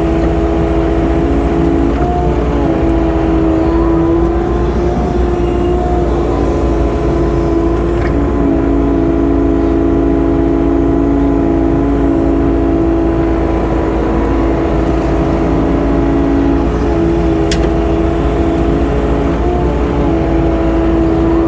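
Engine of heavy farm machinery running steadily at working speed, its pitch dipping and rising slightly a few times.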